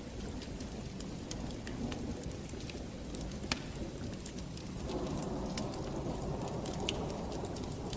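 Wood fire burning in a fireplace: a steady low rush of flames with scattered sharp crackles and pops, one louder pop about halfway through.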